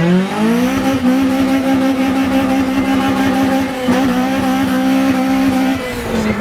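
Honda K20 2.0-litre inline-four engine revved hard. Its note climbs into high revs, holds a steady high pitch for about five seconds with a brief dip about four seconds in, then drops away near the end.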